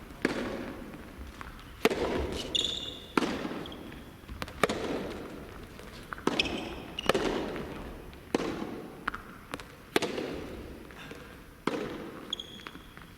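Soft tennis rally: rackets hitting the soft rubber ball about every one and a half seconds, each hit echoing, with shoes squeaking on the court between hits.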